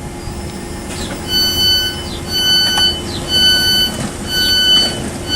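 Door-closing warning beeps on a Southeastern Class 465 Networker electric train: a run of evenly pitched beeps, about one a second, starting about a second in, over the unit's steady hum. They signal that the doors are closing just before departure.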